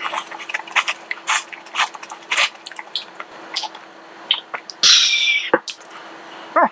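Close-miked eating sounds: crisp crunches from chewing bean sprouts, then slurping of glass noodles, louder about five seconds in and again briefly near the end.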